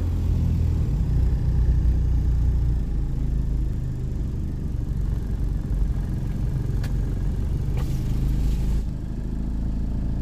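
Car engine idling, a steady low rumble heard from inside the cabin, with a sharp click about seven seconds in and a brief rush of noise a second later.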